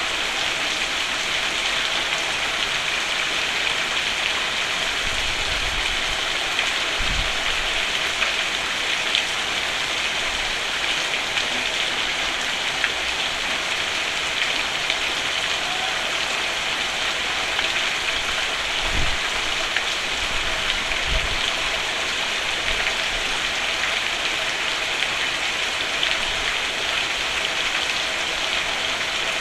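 Steady rain falling on a roof, an even patter of drops with a few faint low thumps.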